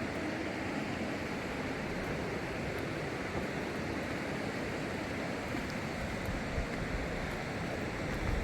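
Steady rushing of a flooded river's water, an even noise with no breaks.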